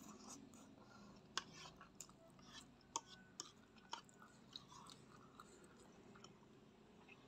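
Close-miked chewing of soft instant fried noodles, quiet overall, with a scattering of short sharp wet clicks, most between about one and five seconds in.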